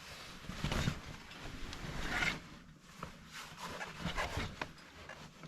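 Soft, irregular rustling and rubbing as a soot sheet is handled and spread over the fireplace opening, with a few faint clicks.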